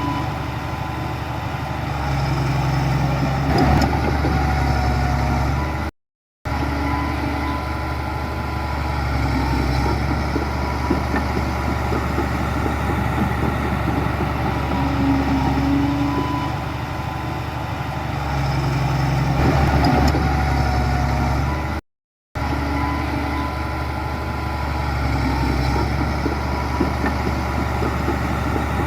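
Heavy diesel engine of earth-moving machinery running steadily with a low drone and a faint whine. The sound cuts out completely twice for about half a second.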